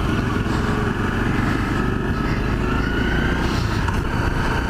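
Honda CRF250L's single-cylinder engine running steadily as the motorcycle is ridden, with a low rumble.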